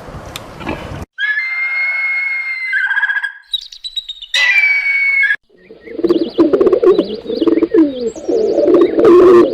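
A run of different animal calls cut one after another: first clear, held whistled bird calls, then a louder stretch of lower, wavering animal calls.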